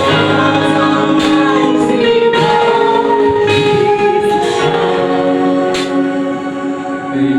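Gospel music: a choir of voices singing long held notes over instrumental backing.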